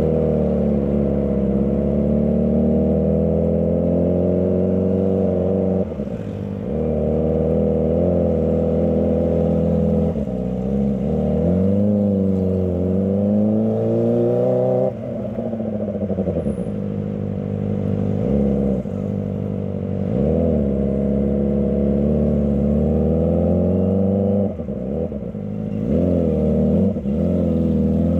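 Kawasaki ZX25R's 249 cc inline-four engine pulling and easing off again and again, its pitch rising and falling, with brief drops in level at about six, ten, fifteen, twenty and twenty-four seconds as the throttle is closed or a gear is changed.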